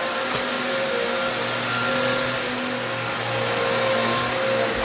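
Vacuum cleaner running steadily, a constant motor hum and airflow noise whose pitch shifts slightly now and then.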